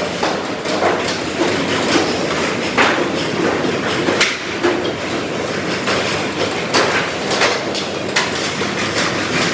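Factory workshop noise: a continuous mechanical clatter with irregular sharp metallic clanks and knocks, several in each second or two.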